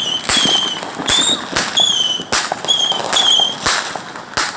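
Fireworks going off in quick succession, about two or three a second. Each one gives a short, high whistle that dips slightly in pitch.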